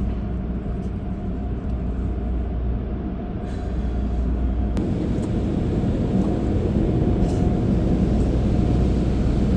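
Automatic car wash machinery heard from inside the car: a steady low rumble with a rushing noise that grows louder about five seconds in.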